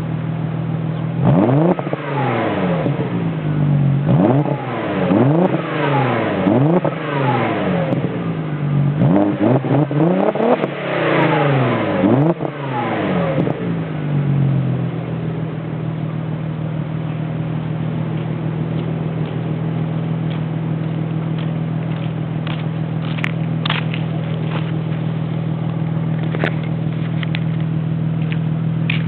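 Audi S4 with a custom Borla exhaust idling, then revved in a quick series of blips, each rising sharply and falling back, for about the first half. It then settles back to a steady idle, with a few light clicks near the end.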